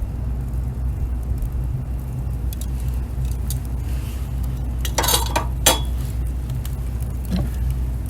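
A steady low rumble, with a quick cluster of light clinks about five seconds in and a single louder clink just after.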